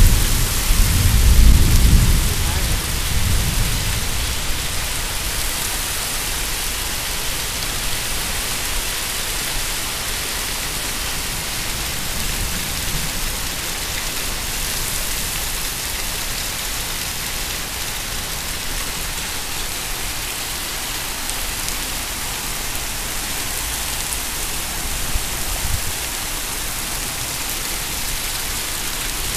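Heavy rain pouring down onto an asphalt driveway, a steady hiss throughout, with a low rumble in the first few seconds.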